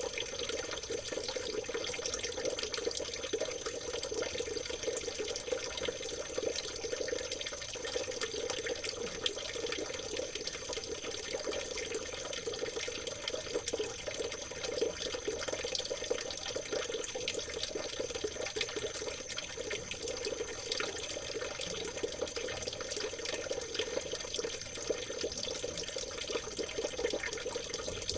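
Stream water trickling and babbling steadily over stones, an even, unbroken splashing with a thin steady high tone running through it.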